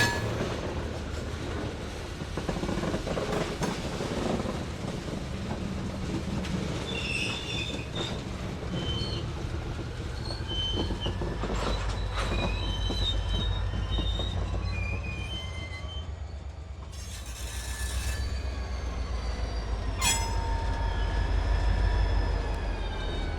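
Slow-moving freight train on light industrial track: the diesel locomotive runs steadily while the wheels squeal against the rail in short chirps, then in longer held squeals after a click about 20 seconds in. A brief hiss comes about 17 seconds in.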